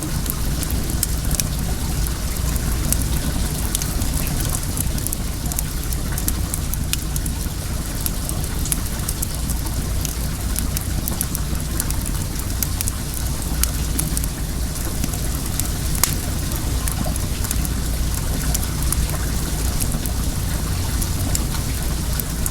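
Wood fire crackling with frequent short, sharp snaps over the steady rush of running well water.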